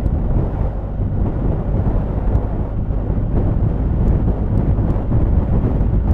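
Steady low wind rumble buffeting the microphone, mixed with road noise, as a motorcycle is ridden along.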